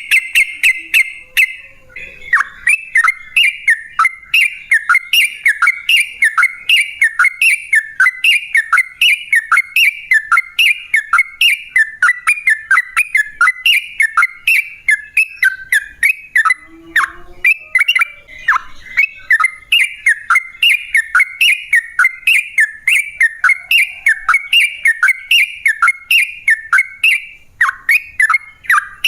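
Yellow-vented bulbul (trucukan) calling in a long, unbroken run of short chirped notes, each falling in pitch, at about two to three a second.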